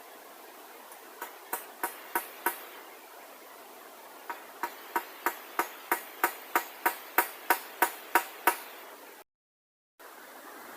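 Hammer blows in two runs: about five strikes, a pause, then a steady run of about fourteen strikes at roughly three a second, growing louder as they go, before the sound cuts off suddenly.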